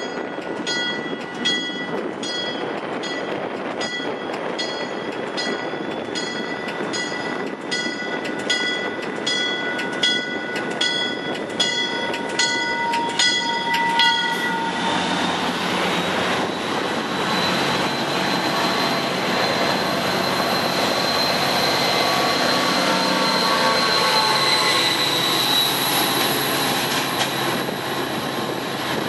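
MARC commuter train rolling past, with its warning bell ringing about three strokes every two seconds until the bell stops about halfway. Then the EMD GP40 diesel locomotive goes by, its engine running and the wheels giving a steady high squeal.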